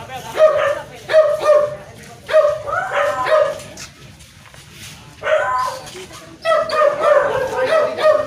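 A dog barking repeatedly in short, high yips, with a lull of about a second and a half midway before the barking picks up again.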